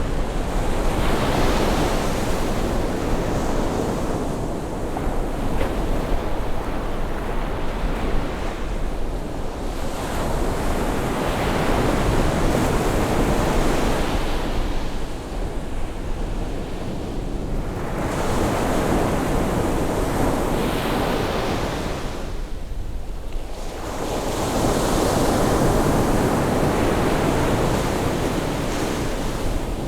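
Ocean waves breaking and washing in on a rising tide, in broad swells that build and fall back every five or six seconds, with wind rumbling on the microphone.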